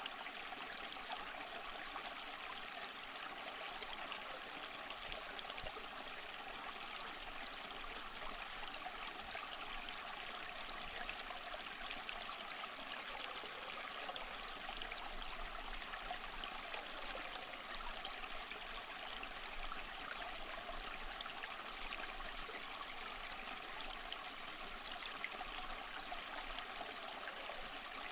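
Waterfall: water rushing in a steady, unbroken stream, mostly a bright hiss with little deep rumble.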